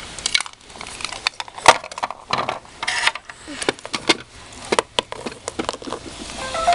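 Small hard objects being handled and set in place, making a string of irregular clicks and knocks.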